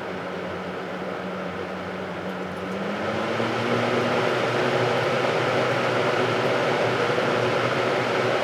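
Vintage Hunter seven-blade box fan running with a steady whir and hum. About three seconds in, its tone rises in pitch and the sound grows louder as the fan speeds up, then it holds steady.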